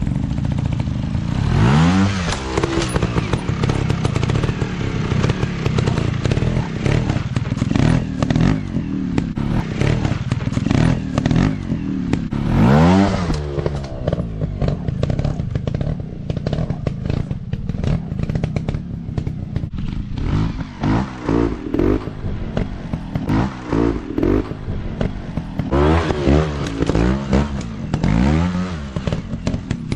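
Dirt-bike engine revving in repeated bursts, its pitch rising and falling again and again, with clattering knocks throughout.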